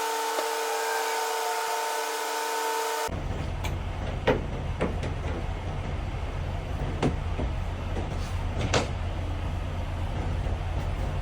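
A steady mechanical whine with several held tones stops abruptly about three seconds in. It gives way to the low, steady rumble of an idling diesel semi truck engine, with a few sharp metallic clicks and knocks.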